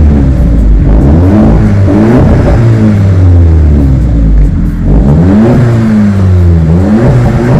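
Audi A3 exhaust fitted with a straight-through stainless resonator, the engine revved up and let fall back several times in a row.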